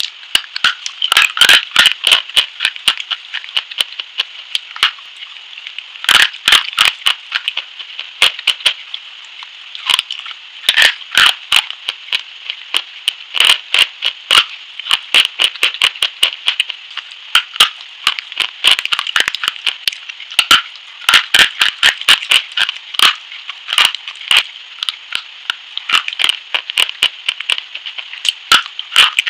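Close-miked crisp crunching as a hard white Bebo SP bar is bitten and chewed: sharp, irregular crunches and snaps coming in quick clusters.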